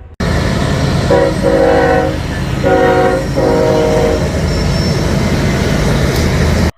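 Train passing with a steady heavy rumble while its air horn sounds two long chord blasts, about a second and a half each. The sound starts and stops abruptly.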